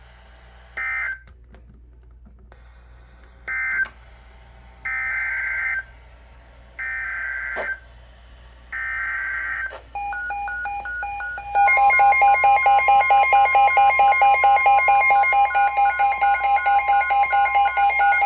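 NOAA Weather Radio alert sequence. Screeching digital data bursts: two short ones, then three of about a second each, the SAME header coding the warning. From about ten seconds in, a weather-alert receiver's alarm beeps loudly several times a second over the steady Warning Alarm Tone.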